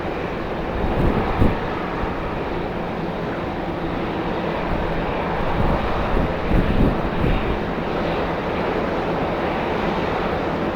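Airliner engines running with a steady noise, heard across an airport apron with wind on the microphone.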